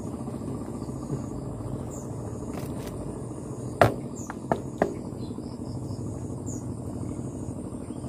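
Insects chirring steadily over a low rumbling background, with three sharp knocks about halfway through, the first the loudest.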